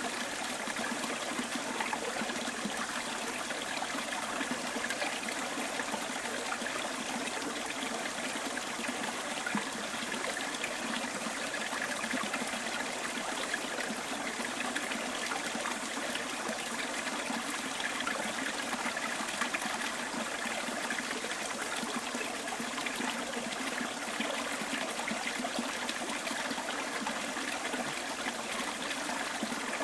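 A small stream trickling and burbling over stones, a steady, even flow.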